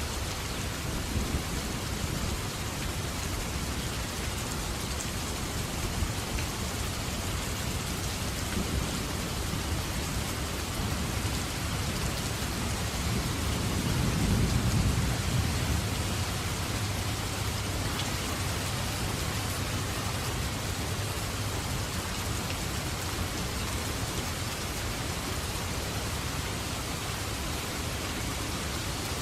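Steady heavy rain falling, with a low roll of thunder swelling and fading about halfway through.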